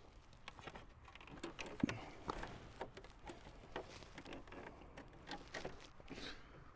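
Faint scattered clicks and light taps of something being handled, with no engine running.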